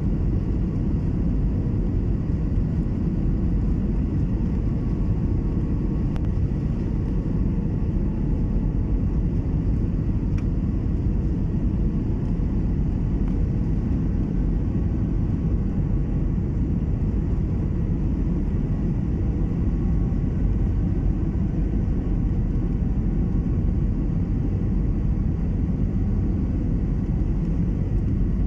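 Passenger airliner in flight: a steady low rumble of engines and airflow heard inside the cabin, unchanging throughout.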